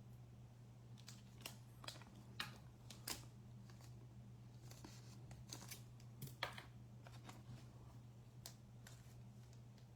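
Faint, scattered short clicks and snips of trading cards and foil pack wrappers being handled and opened, over a low steady hum.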